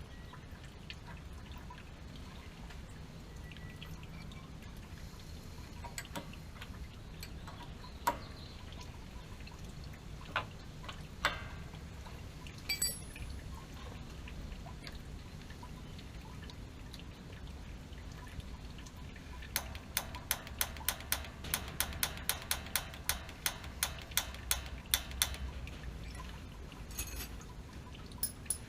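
Water dripping and trickling from a leaking, flooded gas water heater over a steady low hum, with a few scattered sharp clicks, then a quick run of clicks, about four a second, for several seconds near the end.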